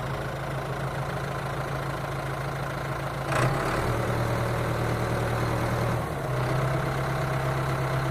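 An engine idling: a steady low hum, with a short knock about three seconds in and small shifts in its pitch about halfway through and again near the end.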